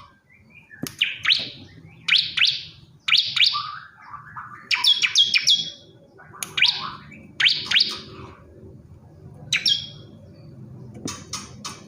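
Male bar-winged prinia (ciblek kristal) calling: short, sharp, chirped phrases repeated about once a second, some with a quick falling sweep, and a faint low hum beneath.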